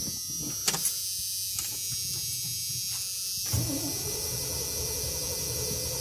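Cold start of an engine with a freshly rebuilt carburetor, after sitting for over a week. A steady electric whine with a few clicks comes first; about three and a half seconds in, a low engine rumble begins as it turns over and starts to catch.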